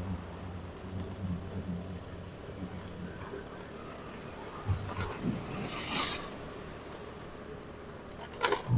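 Faint vehicle and road noise, with a brief hissing whoosh about six seconds in and a short, sharper sound near the end.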